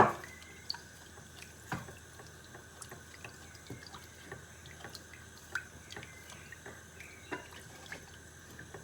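Milk being poured into a pan of butter-and-flour roux and stirred in, with a sharp clack at the start and scattered light taps of the spoon against the pan.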